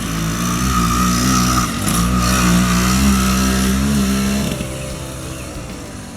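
80cc two-stroke gas bike engine with a tuned expansion-chamber exhaust, revving up and climbing in pitch under acceleration, then dropping away about four and a half seconds in.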